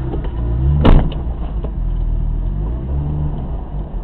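BMW E30's M50B20 straight-six engine running while driving, its note rising and falling. A single sharp thump about a second in.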